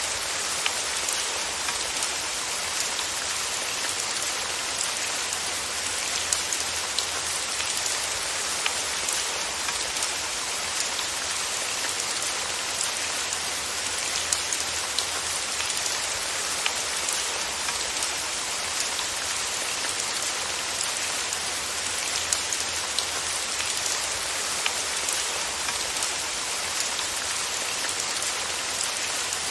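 Steady rain: an even hiss of falling rain, with scattered sharper ticks of single drops on a surface.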